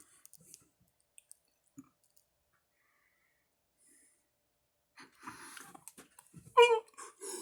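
A man's breathing and short groaning vocal noises near the end, after a few seconds of near quiet with faint clicks.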